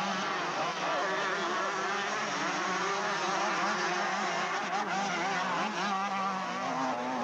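Several motocross motorcycle engines racing at once, their pitches rising and falling as the riders open and close the throttle.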